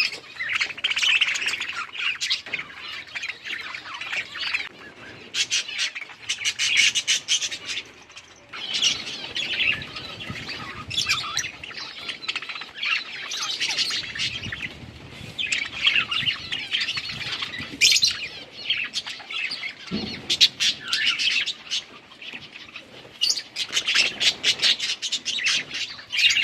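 Budgerigars chirping and chattering: rapid warbling chirps and squawky calls in bursts of a second or two, with short lulls between.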